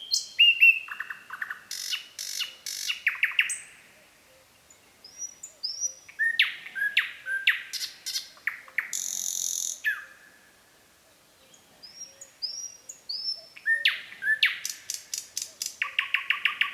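Nightingale singing: three song phrases separated by short pauses, each built of rapid runs of repeated notes and trills, the middle one ending in a brief harsh rattle.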